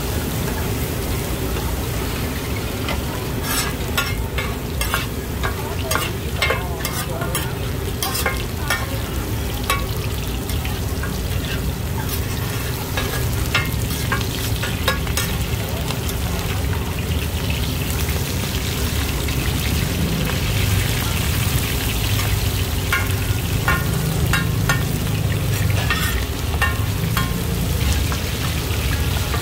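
Hoi tod, mussels in batter, frying crisp in hot oil in a wide pan: a steady sizzle with flurries of clicks and scrapes from a spatula working against the pan.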